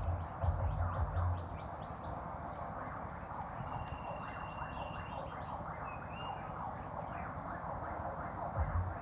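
A dense chorus of frogs calling outdoors: many short, repeated, falling calls overlapping. A thin steady whistle-like tone sounds briefly near the middle. A low rumble runs through the first second and a half and comes back near the end.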